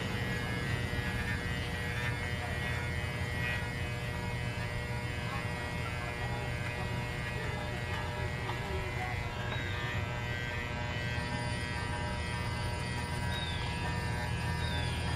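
Electric pet clippers buzzing steadily while shaving a small dog.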